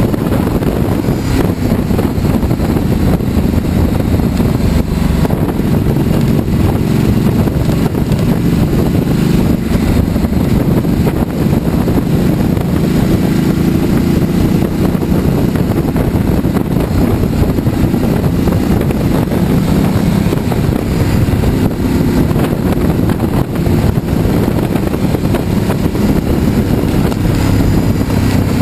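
Ducati Multistrada's L-twin engine running steadily while the motorcycle is ridden, mixed with wind noise.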